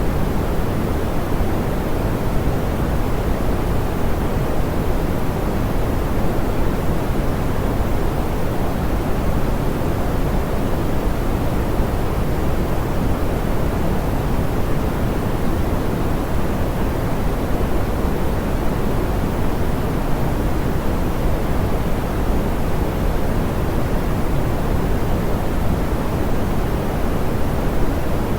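Steady pink noise: an even, unbroken hiss weighted toward the low end and soft in the highs, with no changes.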